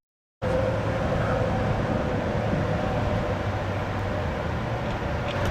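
Steady rumble of motor-vehicle traffic with a low hum and a faint steady tone, starting after a split second of silence.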